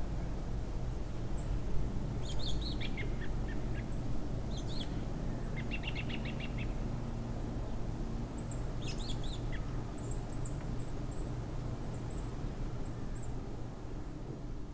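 Small songbirds chirping on and off, with a quick trill of repeated notes about six seconds in, over a steady low rumble.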